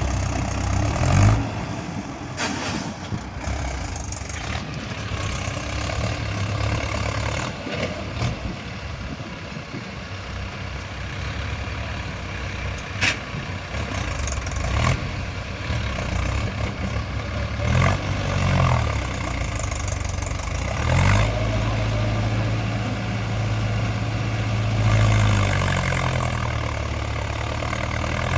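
Mahindra tractor's diesel engine running, revved up and down several times in the second half so that its note rises and falls.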